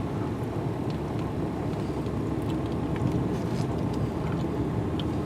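Ram 3500 dually pickup's diesel engine and tyres heard from inside the cab, a steady low drone while driving slowly, with a few faint small ticks.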